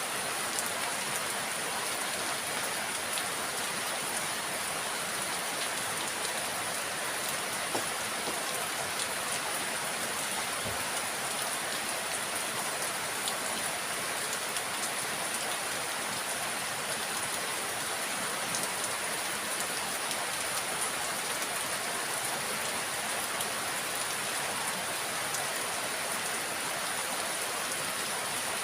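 Steady rain falling: an even hiss with scattered faint ticks of drops landing.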